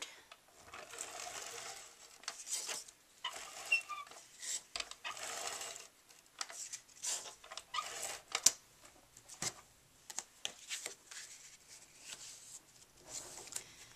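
Cardstock and small craft supplies being handled and pressed down on a card: paper rustling with irregular light taps and clicks, the sharpest click about eight and a half seconds in.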